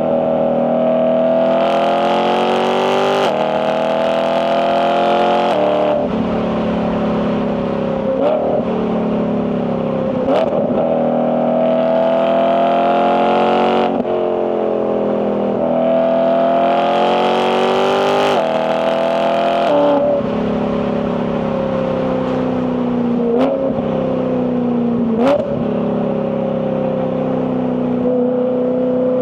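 BMW E92 M3's S65 V8 engine and exhaust pulling through the gears, the note rising under throttle in long pulls and easing back in between. Quick DCT gear changes break the pitch off suddenly several times, with a few short sharp cracks.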